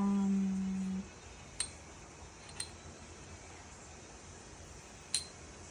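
A held one-second hum, a wordless "mm" from a person's voice. Then three light metallic clinks spaced one to a few seconds apart, as car shock parts are handled during reinstallation.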